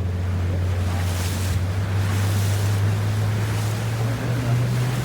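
Motorboat engine running steadily under way, its hum creeping slightly higher near the end, with water rushing past the hull and wind buffeting the microphone.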